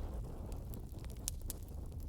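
Wood fire burning in a fireplace: a low steady rumble of flames with sharp crackles and pops scattered throughout.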